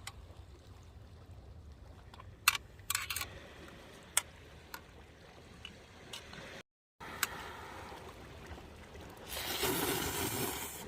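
Ramen-eating sounds: a few sharp clicks, then a louder wet slurp lasting about a second and a half near the end.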